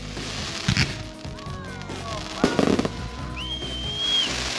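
Aerial fireworks bursting overhead: two sharp bangs about two seconds apart, with high gliding tones between them.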